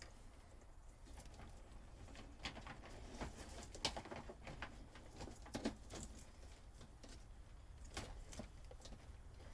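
Scattered light clicks, taps and rustles of hands working on a boat's old wiring, with sharper clicks about four and six seconds in.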